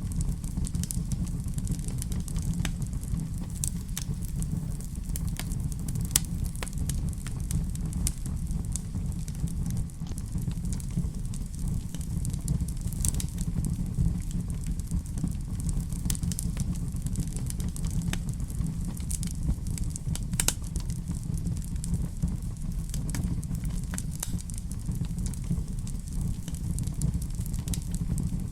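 Fire burning in a fireplace, crackling and popping with scattered sharp snaps over a steady low rumble.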